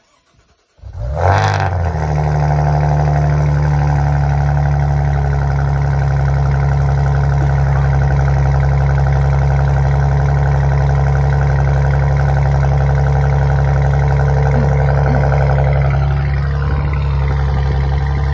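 2015 Maserati Ghibli SQ4's twin-turbo V6 cold-starting in sport mode: it catches about a second in with a short rev flare, then settles into a loud, steady fast idle.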